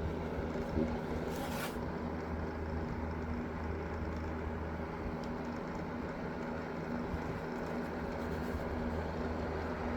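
Small electric fan motor running steadily with a constant hum and airy whir. A brief hiss about one and a half seconds in.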